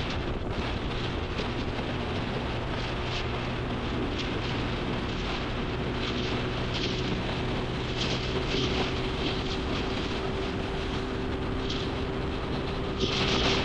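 Motorcycle engine running at a steady cruising speed, a constant drone under rushing wind and road noise on the microphone. A louder rush of hiss comes near the end.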